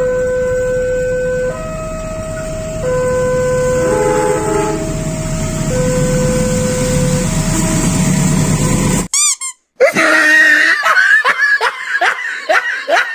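A multi-tone horn sounding long held notes that step between a few pitches like a tune. About nine seconds in, it cuts out briefly and gives way to a rapid series of short rising whoops, about three a second.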